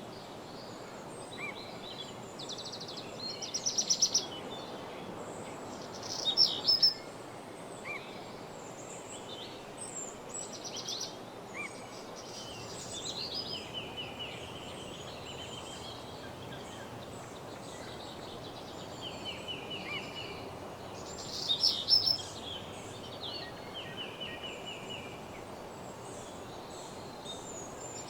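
Several birds singing and calling in woodland: short chirps, whistled phrases and fast trills, three loud trilled bursts standing out, over a steady low background hiss.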